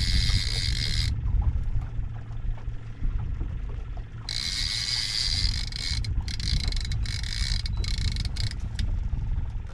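Heavy saltwater fishing reel buzzing in two spells, about a second in and again around the middle, with scattered clicks after, as the angler works a big fish hung on coral. A steady low rumble sits underneath.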